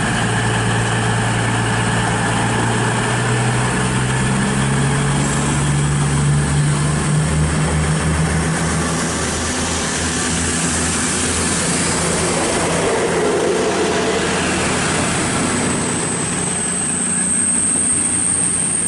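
CrossCountry Class 220 Voyager diesel multiple unit departing. Its underfloor diesel engines' note climbs in pitch for several seconds as it accelerates away and then fades, and a thin high whine comes in near the end.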